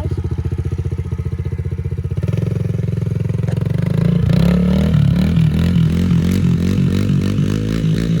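Yamaha TT-R110 dirt bike's small four-stroke single-cylinder engine running, steady at first, then louder from about four seconds in with its pitch rising and falling as the throttle changes.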